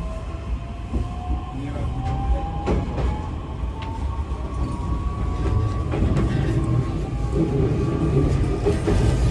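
JR East E131-1000 series electric train running, its motor whine rising steadily in pitch as it picks up speed over a low rumble, with a few sharp rail-joint clicks.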